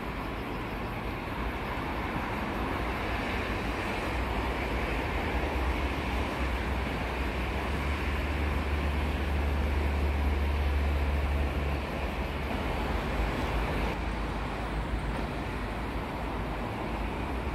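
A train running on the railway line some distance off: a low rumble that builds over several seconds and drops away about twelve seconds in, over a steady wash of noise.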